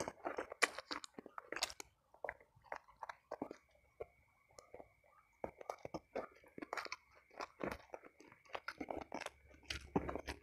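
A person chewing a mouthful of fried snakehead fish and rice close to the microphone, with irregular crisp crunches and bites.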